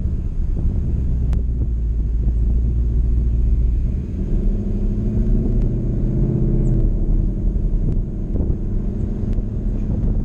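Ford Mustang convertible driving with its top down: the engine runs as a steady low rumble, and its note comes up strongly about four seconds in and eases off about three seconds later.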